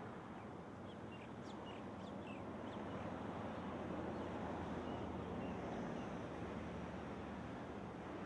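Outdoor ambience: a steady rushing background noise, with birds chirping briefly several times in the first half.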